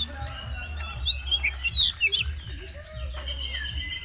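Male oriental magpie-robin (kacer) singing: a fast run of varied whistled notes, with quick rising and falling sweeps. A low hum runs underneath.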